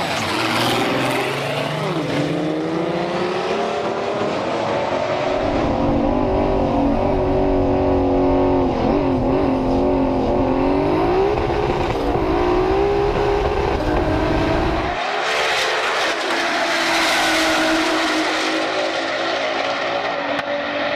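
A race car engine running loudly, its pitch rising and falling as it is revved and eased off. A deep rumble joins in from about five seconds in and drops away about fifteen seconds in.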